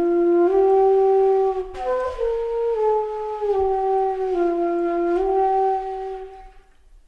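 Background music: a slow solo flute melody of long held notes stepping up and down, fading out near the end.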